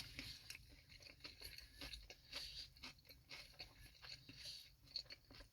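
Faint chewing of a fried chicken sandwich, with many small irregular crunches of the breaded crust.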